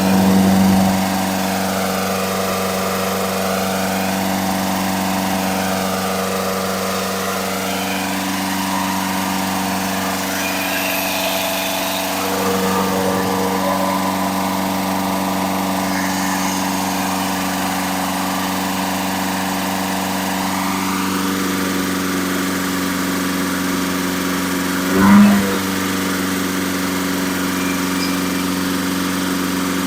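Engine running steadily at a constant speed during camshaft break-in, with one brief louder surge a little before the end.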